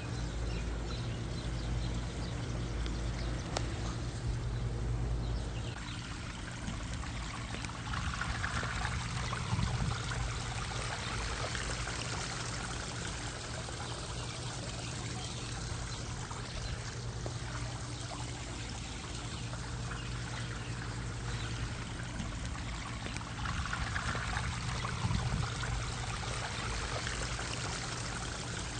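Water steadily pouring and splashing from a backyard pond's waterfall and fountain, over a low steady hum.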